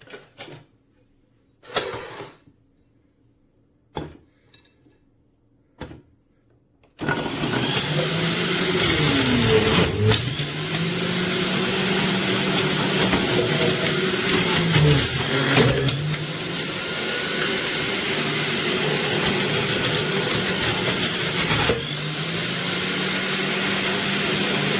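A few short knocks, then an electric juicer's motor switched on about seven seconds in, running loudly. Its hum drops sharply in pitch and recovers twice, the motor slowing as produce is pushed in and loads it.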